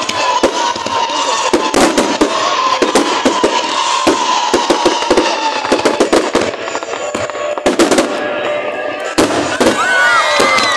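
Fireworks going off in rapid, irregular succession: dense sharp bangs and crackles, with a cluster of wavering whistle-like tones near the end.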